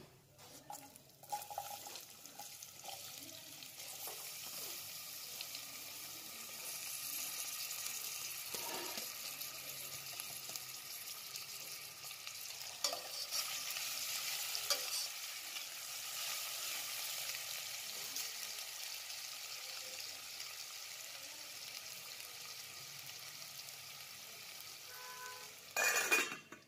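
Diced potato and sweet potato frying with cumin seeds, peanuts and curry leaves in hot oil: a steady sizzle, stirred with a metal spoon that knocks against the pan now and then. Near the end a steel lid is set on the pan with a short ringing clatter.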